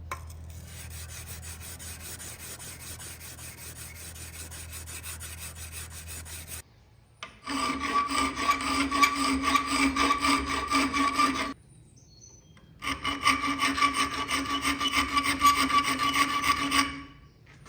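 Hand sanding a hardened Apex Ultra steel chef's knife blade: sandpaper rubbing quickly back and forth, skating across the very hard steel with a rasping, slightly ringing tone. A quieter stretch of rubbing over a low hum comes first, then two louder runs of about four seconds each with a short pause between them.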